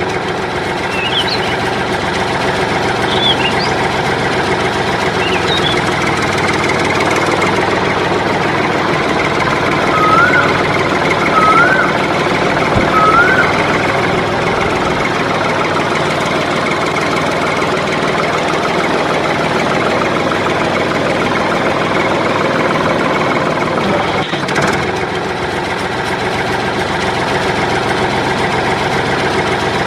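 Tractor engine idling steadily. A few short bird-like chirps sound over it in the first few seconds, and three short rising chirps come about ten to thirteen seconds in.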